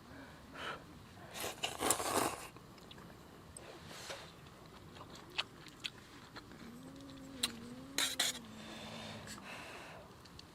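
Eating sounds: short scrapes, clicks and chewing, the loudest cluster about two seconds in. In the second half a low wavering whine-like tone is held for about two and a half seconds.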